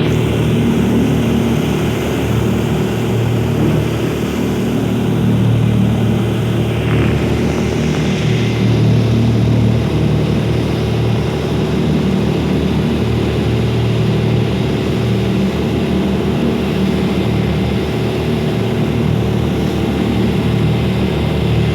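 A boat's engine running at a steady speed, a low even drone with a constant rushing noise over it.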